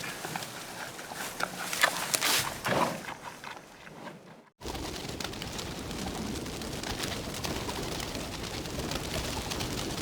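Birds calling, with irregular short calls and clicks, then after a brief break about four and a half seconds in, a denser steady chorus of calls.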